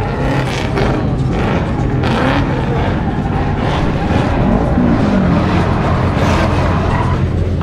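A drift car's engine revving hard, its pitch sweeping up and down several times as the throttle is worked, over a steady low rumble.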